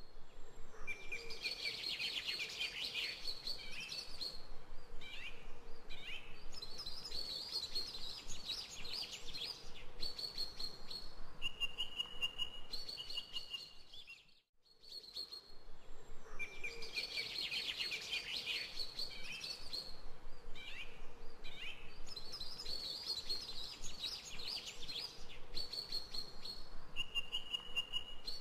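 Birds chirping and singing, a short recording of birdsong that plays through twice with a brief break about halfway.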